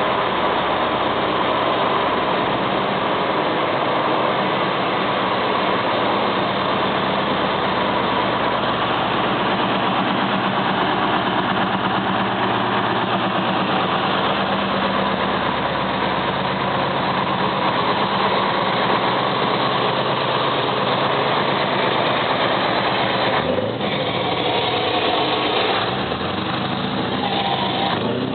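Scania truck engine running steadily, its pitch rising and falling in the last few seconds.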